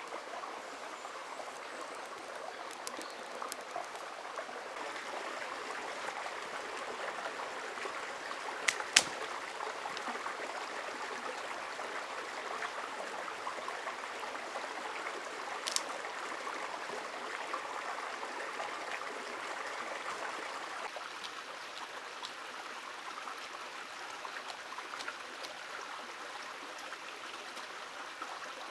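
A river's water running steadily. There are a few sharp clicks: two close together about nine seconds in, and one near sixteen seconds.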